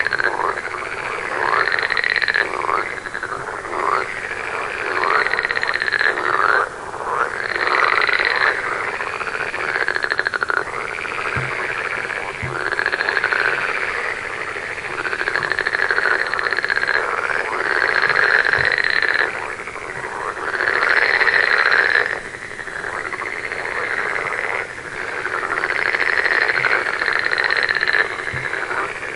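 A chorus of frogs croaking: many overlapping calls that each rise and fall in pitch, going on without a break.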